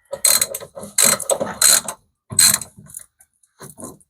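Socket ratchet wrench clicking in several short runs as a 10 mm bolt is worked back and forth.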